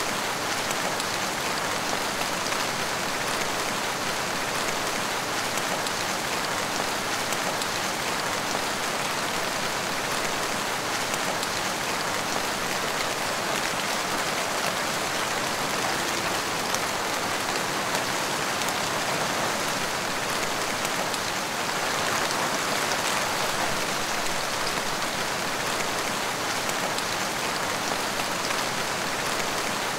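Heavy rain falling steadily, a dense even hiss of drops on surfaces with no breaks or single events standing out.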